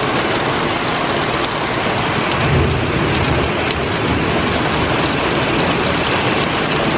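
Heavy rain falling steadily during a thunderstorm, with a short low rumble about two and a half seconds in.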